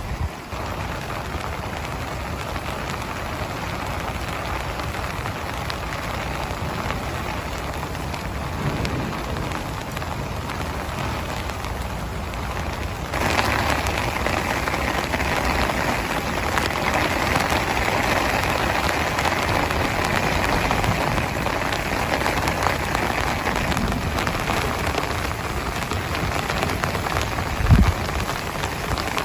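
Heavy rain falling steadily. It gets suddenly louder about halfway through, and a short low thump sounds near the end.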